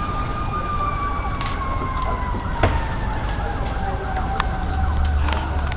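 An emergency-vehicle siren wailing, its pitch gliding slowly downward. Under it a burning pickup truck crackles with a steady low rumble, and a few sharp pops come from the fire.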